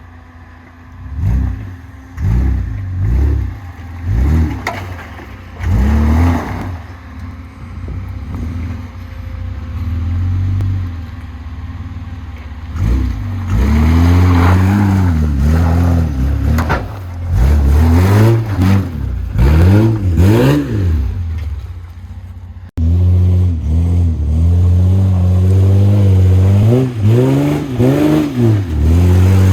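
Truck engine with its muffler cut off, revving up and down over and over, its pitch climbing and falling with each rev. The sound drops out for an instant about 23 seconds in, then the revving carries on.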